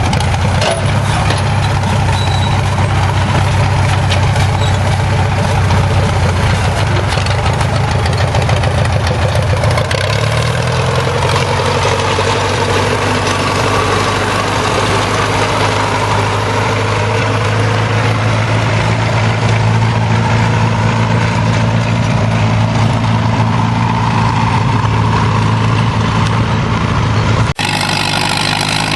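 Antique tractor engine running loud and steady; its pitch climbs about a third of the way in and holds there. Near the end the sound changes abruptly to a different engine note.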